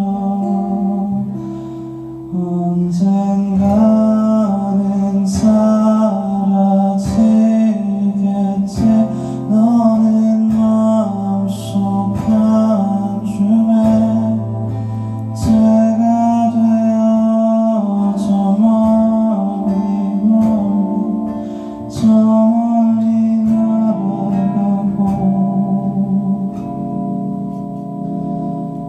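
A live indie band playing a slow song: drums, bass guitar, electric and acoustic guitars and keyboard.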